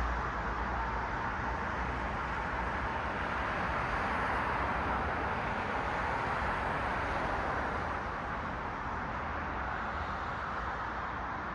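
Road traffic: cars passing on a city street, a steady rush of tyre and engine noise that swells in the middle and eases off slightly near the end.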